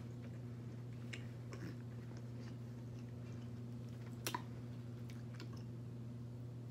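Faint chewing and small wet mouth clicks over a steady low hum, with one sharper click about four seconds in.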